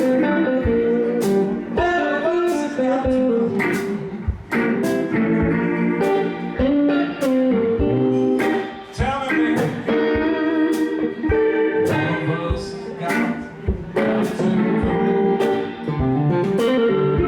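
Electric blues band playing an instrumental passage, guitar to the fore, over a steady drum beat.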